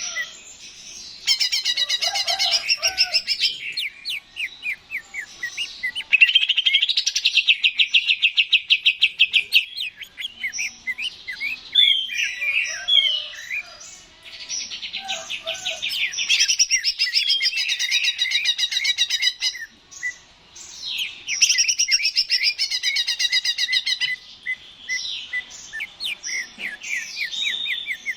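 Green leafbird (cucak ijo) singing continuously: long, rapid trilled phrases and quick sweeping notes, one after another with only short pauses between them.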